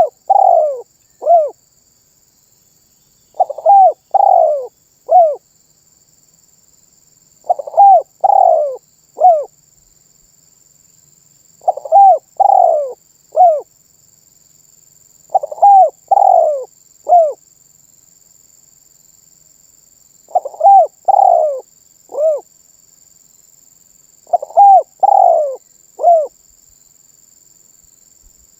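Spotted dove (tekukur) cooing: a three-note phrase, two notes close together and a shorter last note, repeated about every four seconds, seven times.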